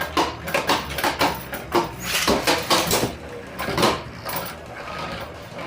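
3D-printed plastic Beyblade spinning tops clashing in a battle stadium: a run of irregular sharp clacks and knocks as they collide and skid.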